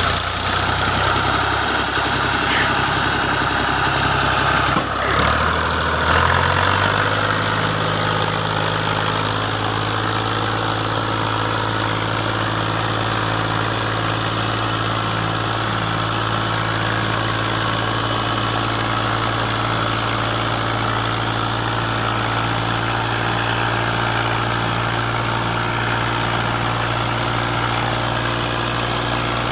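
Tractor diesel engine running. Its speed changes about five seconds in, stepping up in pitch, then it runs at a steady speed.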